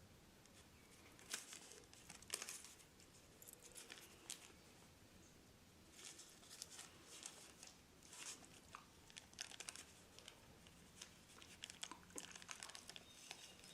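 Faint, irregular crinkling and rustling of a cigarette rolling paper and dry, crumbled tobacco being handled and rolled by hand, in scattered short crackles.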